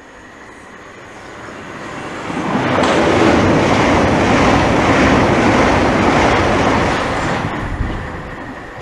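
Southeastern Class 465 Networker electric multiple unit passing through the station without stopping, running empty. The noise swells over about a second or two, holds loud for about four seconds, then fades away.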